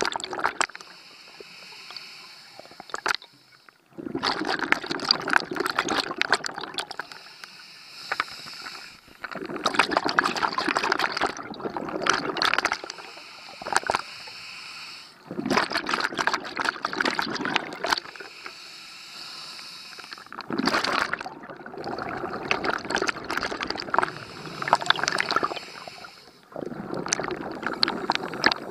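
Scuba diver breathing underwater through a regulator: a quieter hiss on each inhale, then a burst of bubbling exhaust bubbles on each exhale, repeating about every six seconds.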